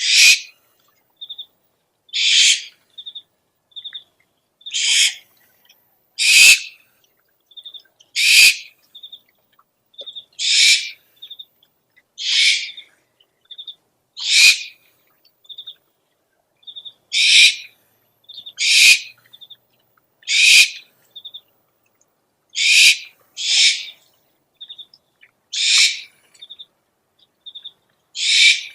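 Owl calls from an owl-lure recording: harsh, hissing screeches of about half a second, repeating every two seconds or so, with short high chirps in between.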